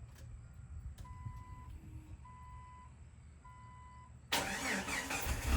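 Three evenly spaced electronic beeps, each about two-thirds of a second long, over a low rumble, then a sudden loud rush of noise with sweeping pitches about four seconds in.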